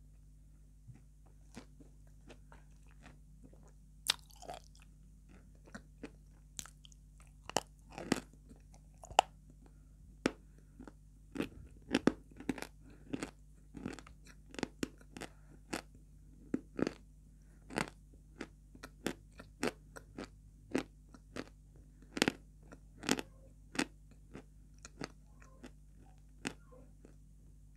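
Close-up chewing and crunching of hard, dry white chalk-like chunks: a string of sharp, crisp crackles, about one to two a second, as the pieces break between the teeth.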